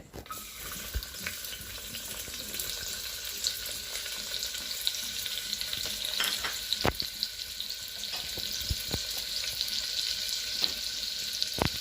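Chopped onion sizzling in hot oil in a pressure cooker, a steady frying hiss that starts suddenly and builds slightly. A few sharp knocks of a spoon against the cooker come through it as the onion is stirred.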